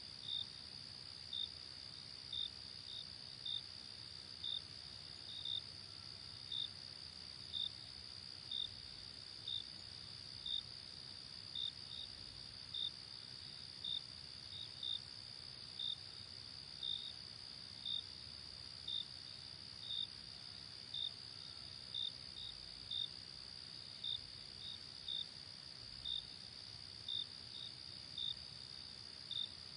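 Night crickets: a steady high insect trill, with short chirps repeating about once a second over it and a faint low rush underneath.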